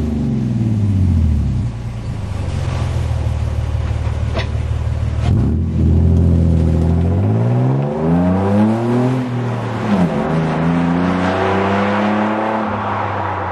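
2006 Toyota Tacoma 4.0L V6 running through JBA headers and a true dual exhaust with Magnaflow mufflers. The revs fall away, hold low for a few seconds, then climb, dip briefly about ten seconds in, climb and hold again, and ease off near the end.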